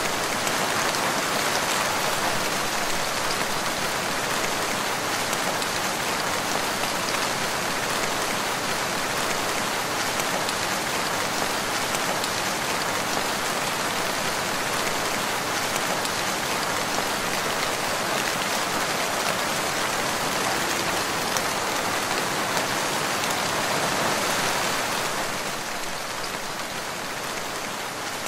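Steady rainfall: a dense, even hiss of drops that eases off slightly near the end.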